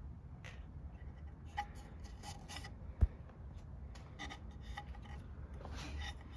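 Quiet scraping and rubbing strokes of a hand tool working wood, in short clusters, with one sharp knock about three seconds in.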